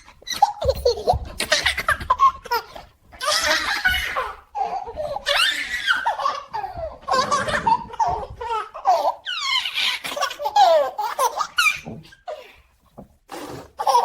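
A baby laughing: repeated high-pitched belly laughs and giggles in bursts with short breaths between, fading to a quieter stretch near the end.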